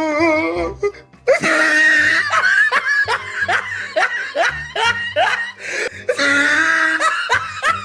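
Loud laughter in repeated short, falling "ha-ha" strokes over background music; it breaks off about a second in, then carries on.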